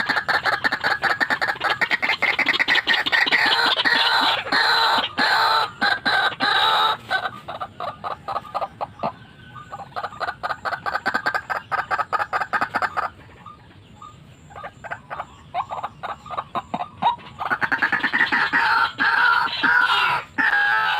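White-breasted waterhen calling: a fast run of harsh, repeated notes that goes quieter in the middle of the stretch and picks up loudly again near the end.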